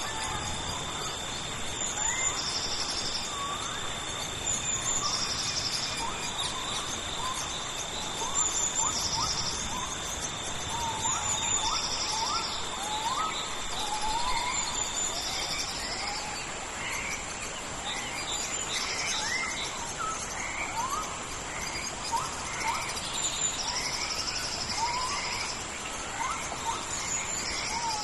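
Tropical rainforest chorus: many birds giving short rising whistled calls, over insects with steady high-pitched buzzing and pulsed trills that repeat every couple of seconds, above a steady hiss. One high insect tone stops about halfway through.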